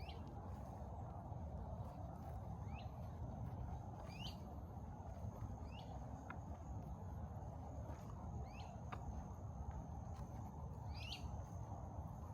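A bird calling again and again, short upward-sweeping chirps every couple of seconds, over a steady thin high-pitched insect drone and a low rumble.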